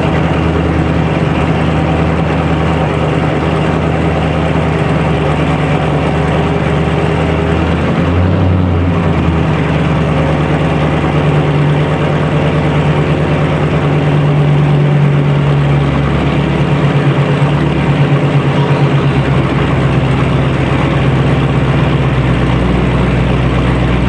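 Dodge Charger Scat Pack's 392 Hemi V8 running steadily at low revs, loud and even.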